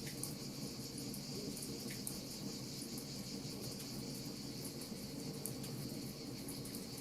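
Crickets chirping steadily over the small, sharp snaps of a crackling wood fire, with a steady low wash of noise underneath.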